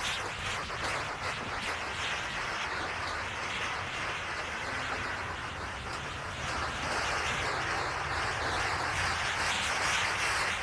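Double-stack container freight train rolling past close by: a steady rumble and hiss of steel wheels on the rails.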